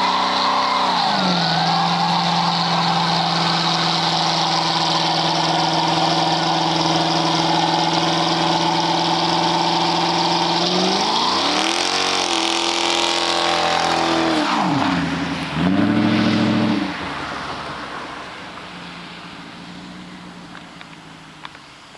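2007 Dodge Charger R/T's 5.7 L HEMI V8 through an SLP Loudmouth cat-back exhaust, held at a steady engine speed for about ten seconds. It then revs up and down several times and fades away over the last few seconds.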